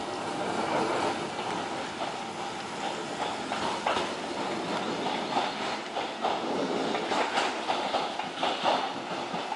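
A train running on the rails, its wheels clattering over the track with irregular knocks.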